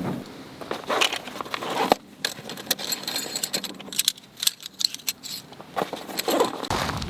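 Small hard objects, seemingly metal, clinking and rattling as they are handled, in an irregular string of sharp clicks.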